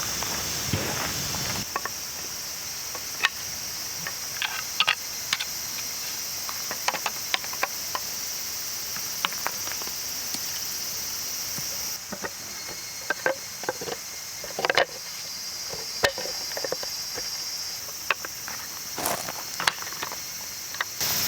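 Steady high-pitched chorus of summer insects, with scattered short clicks and knocks of things being handled close by.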